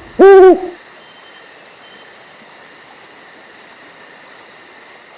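A great horned owl gives one deep, steady hoot about half a second long at the start. After it there is only a faint steady night background with a rapid, even high-pitched ticking.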